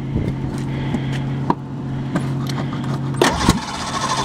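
A steady engine hum, then a couple of sharp clicks about three seconds in, after which a pickup truck's starter begins cranking the cold engine in fast, even pulses without it catching.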